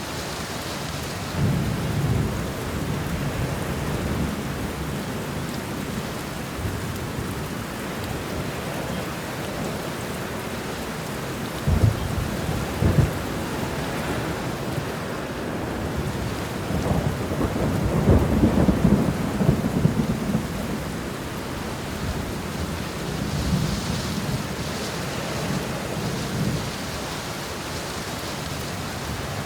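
Steady heavy rain with thunder: a low rumble early on builds again, two sharp cracks come around the middle, then a longer rolling rumble follows.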